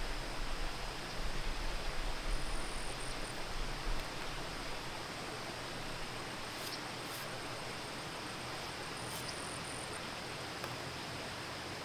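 Steady outdoor background hiss, with a low rumble for the first few seconds that then eases. Two brief high-pitched buzzes come through, one a couple of seconds in and one near the end.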